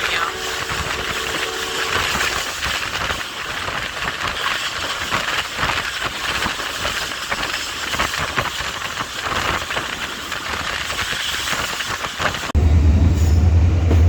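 Passenger train running at speed: steady rushing noise with the wheels clattering over the rails. About twelve seconds in, it gives way abruptly to a louder low drone.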